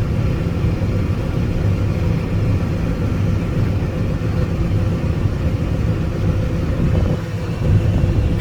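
Combine harvester running while harvesting corn, heard from inside the cab: a steady low drone that eases briefly about seven seconds in.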